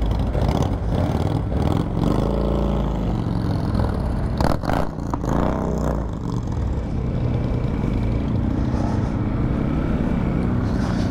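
Motorcycle engine running on the move, its pitch rising and falling about two seconds in. A few sharp knocks or clatters come a little over four seconds in.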